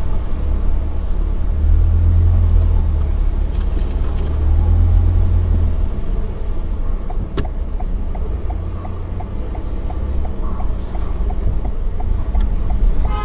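Car cabin road rumble, heavy and low, easing a little about halfway. From about halfway on, a car's turn-signal indicator ticks steadily, about two ticks a second.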